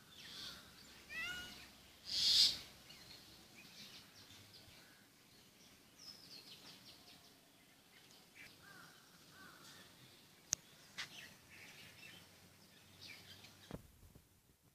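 Faint outdoor ambience with birds chirping. About a second in there is a short call that bends in pitch, and about two seconds in a brief loud rush of noise.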